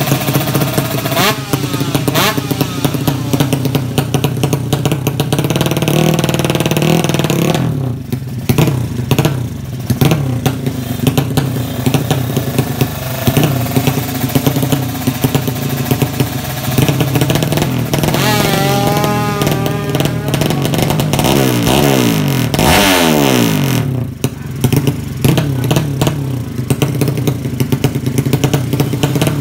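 Drag-race motorcycle engine running loud and being revved, its pitch rising and falling several times, with a falling sweep a little past the middle.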